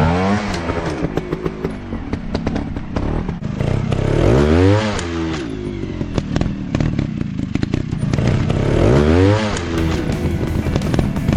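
Motocross dirt bike engines revving, the pitch climbing and falling back three times, about four seconds apart, over scattered short knocks and clatter.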